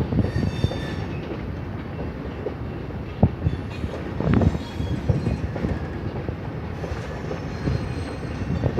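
Freight train rolling past: a steady rumble of wheels on rail with scattered knocks over the rail joints, a sharp knock about three seconds in, and faint high wheel squeal near the start and again near the end.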